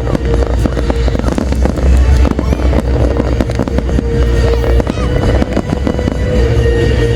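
Large fireworks display going off non-stop, with dense overlapping bangs and crackles over a deep continuous rumble, and music playing along.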